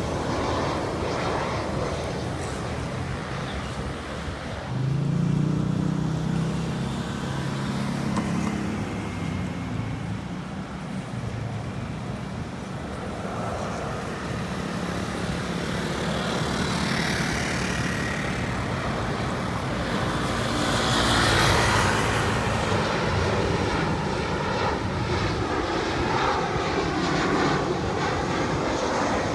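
Boeing 737-800 airliner's turbofan engines on final approach, passing over with a continuous jet roar that swells and fades.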